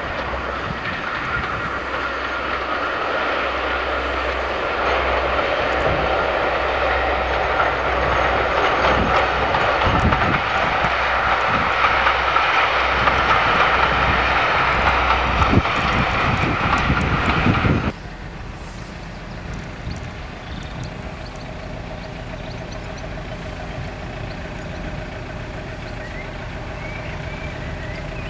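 Diesel locomotive and train drawing closer and passing, the engine note and wheel-on-rail noise growing steadily louder, with a few sharp clicks from the wheels. About two-thirds of the way through it cuts off abruptly to a quieter, steady low engine hum.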